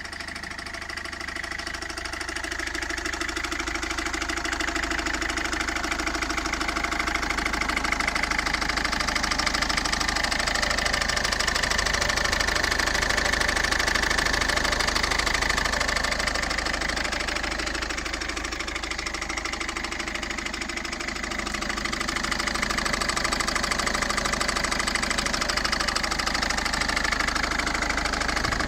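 Citroen C3 1.4 HDi four-cylinder turbodiesel engine running, with a fast, even ticking clatter: the strange noise the owner is trying to identify. It grows louder over the first few seconds, eases off for a few seconds past the middle, then comes back up.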